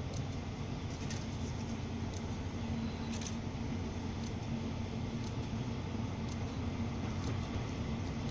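Distant train approaching: the E234 electric locomotive hauling its consist, heard as a steady low rumble with a steady hum that grows clearer partway through.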